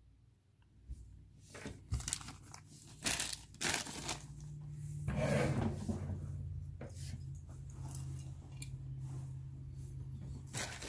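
Plastic bags crinkling and tearing as bagged miniatures are opened and handled, in irregular crackles that start after a quiet second or so. A steady low hum runs underneath from about halfway.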